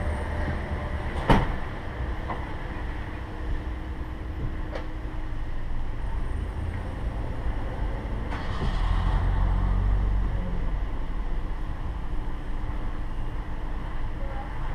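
Steady low rumble of a vehicle engine idling, with a sharp knock about a second in and a few faint ticks. The rumble grows louder for a couple of seconds past the middle.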